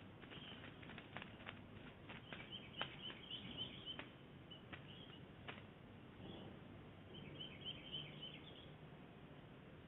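Faint bird chirps in short clusters, heard twice, with several sharp clicks in the first half over a low background hiss. The audio is thin and cut off at the top, as it comes through a phone security-camera app.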